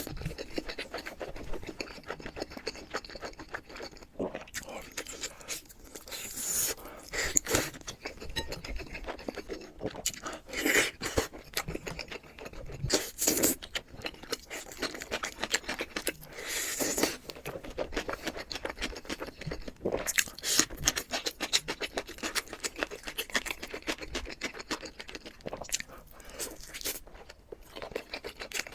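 Close-miked eating: steady chewing full of small wet clicks, with a louder bite or crunch every few seconds.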